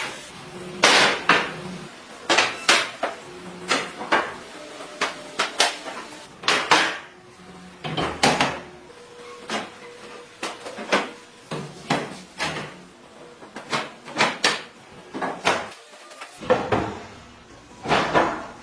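Irregular sharp knocks and clanks of tools on metal, roughly one or two a second, some with a brief ringing tone.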